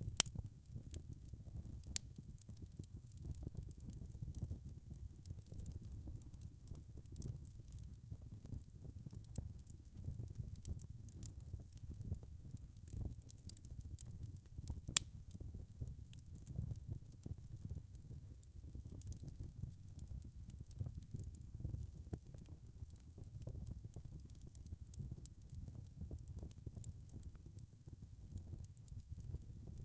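Wood fire burning in a fireplace: a steady low rumble with constant crackling and sharp pops, two louder ones just after the start and about halfway through.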